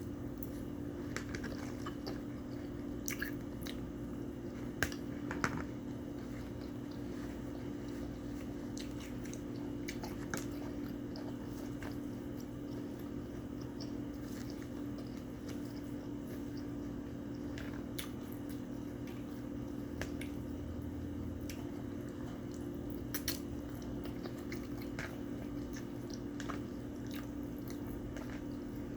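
A person eating close to the microphone: chewing with wet mouth sounds and scattered short clicks, over a steady low hum.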